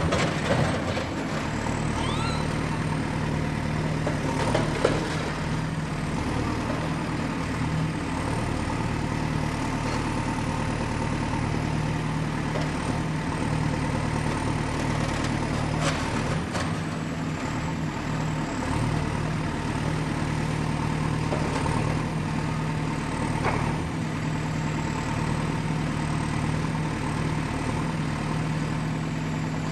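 Excavator's diesel engine running steadily at work, with a few sharp knocks from the machine and a faint wavering high whine over the engine note.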